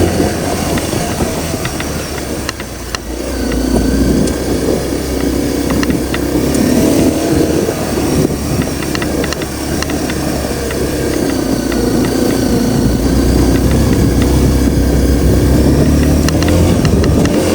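Honda CRF250L's single-cylinder four-stroke engine running under way. Its pitch drops about three seconds in as the throttle comes off, then rises and falls again as the rider rolls the throttle on and off.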